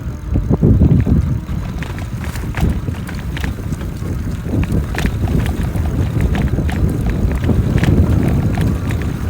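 E-bike ridden over a rough, sandy trail: wind buffeting the microphone as a steady low rumble, with frequent sharp rattles and knocks from the bike jolting over bumps.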